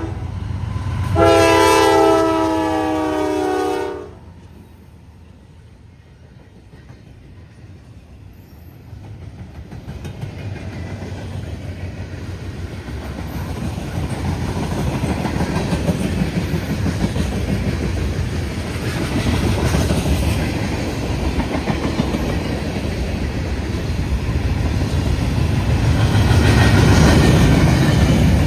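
Freight train's diesel locomotive horn sounding one long blast that cuts off about four seconds in. Then the train's rumble and the clatter of its wheels on the rails grow steadily louder as it comes through.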